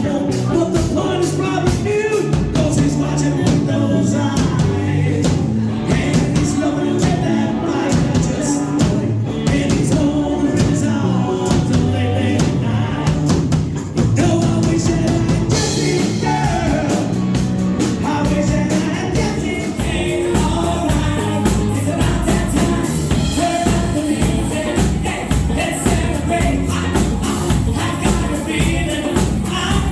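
Live band playing a song with singing over a steady beat, with a brief drop in the music about halfway through.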